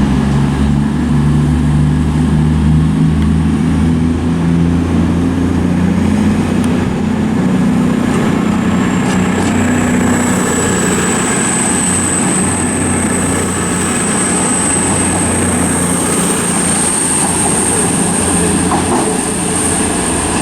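A CrossCountry Class 220 Voyager diesel multiple unit pulling out of the station, its underfloor diesel engines running hard under power. About eight seconds in, a thin high squeal joins and slowly rises in pitch while the engine sound eases.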